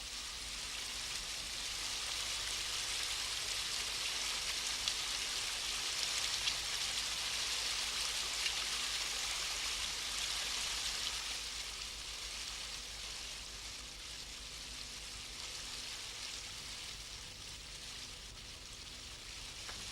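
River water rushing, a steady hiss that swells for several seconds in the middle and then eases off.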